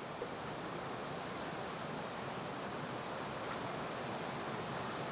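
Steady rush of river water pouring over and below a dam, an even hiss with no breaks.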